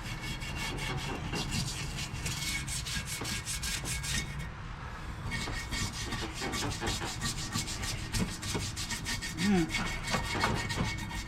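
Bristle brush scrubbing engine parts with mineral spirits in rapid back-and-forth strokes, working off caked oily residue. There is a brief pause about four and a half seconds in.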